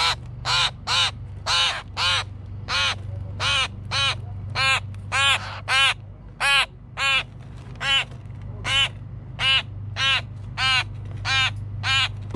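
Grackle fledglings begging to be fed: a rapid, unbroken series of short calls, about two a second, each rising and falling in pitch.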